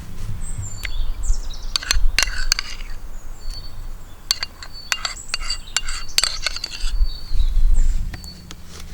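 Utensils clinking and clicking in irregular clusters, with short high bird chirps repeating behind them.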